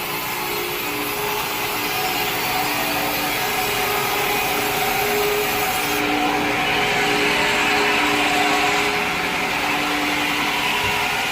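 Sawmill blade cutting through a log: a steady sawing noise over the machine's running hum, with short wavering tones that come and go.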